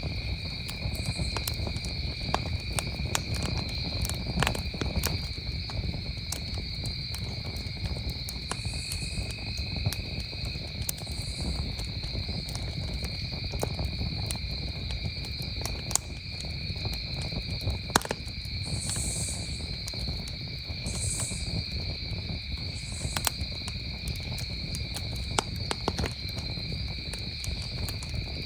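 Campfire crackling with frequent sharp pops, over the steady high trill of crickets chirring at two pitches.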